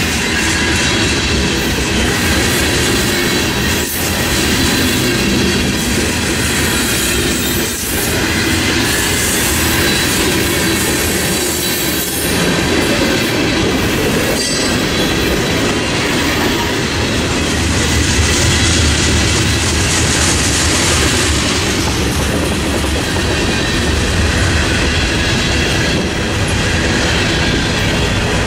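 Norfolk Southern freight cars rolling steadily past at speed: a loud, continuous rumble of steel wheels on rail with clacking over the rail joints and a thin, high wheel squeal.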